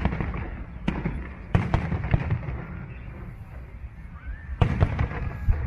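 Aerial fireworks bursting: several sharp bangs, a cluster of them about a second and a half in and another near the end, over a steady low rumble and crackle of shells going off.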